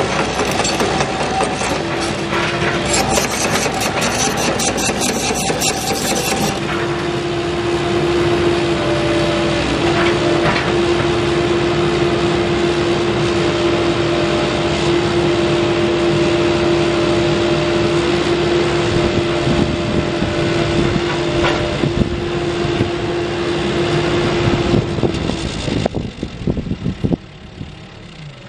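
CAT 308E excavator's diesel engine running with a steady whine over it. The sound falls away quickly near the end as the machine is shut down.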